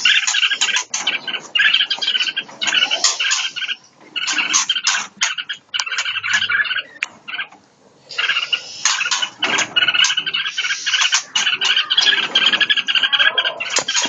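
Caged songbirds chirping and squealing in fast, dense runs, with short lulls about four and seven seconds in.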